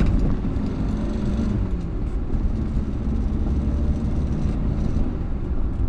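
1962 Morris Minor 1000 heard from inside the cabin while driving slowly: its four-cylinder A-series engine running steadily under road and tyre noise, the engine note shifting about a second in as the car takes a bend. A sharp click comes at the very start.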